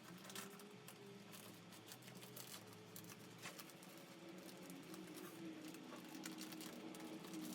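Faint rustling and scattered light ticks of hands working upholstery fabric and pattern material, over a faint low hum.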